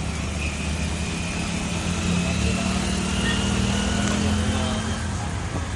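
Steady engine rumble with a long, held tone over it that fades out about five seconds in.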